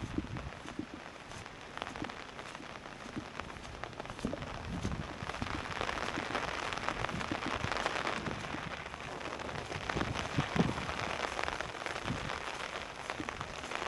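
Heavy tropical-storm rain falling, with many drops striking close to the microphone; it grows louder from about five seconds in.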